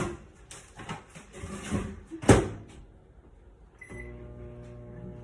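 Oven door handled and shut with a loud bang, then a short beep about a second and a half later and a steady electric hum as the oven is switched on to bake the enchiladas.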